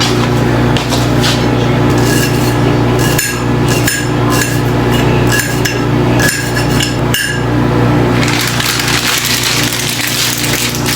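Food being prepared over a steady low hum from a motor-driven appliance. Several sharp knocks and clicks of utensils and containers come between about three and seven seconds in. A hissing noise starts about eight seconds in.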